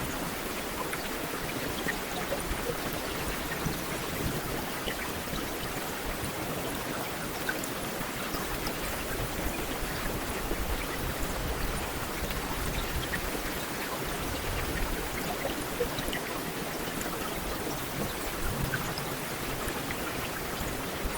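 Heavy rain falling steadily, a dense even hiss with scattered individual drops pattering on hard surfaces.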